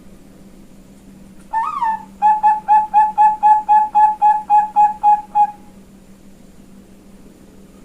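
Female Bangkok zebra dove (perkutut) cooing: one rising-and-falling opening note, then a run of about a dozen short, even coos at roughly four a second, stopping abruptly a little past halfway. A steady low hum runs underneath.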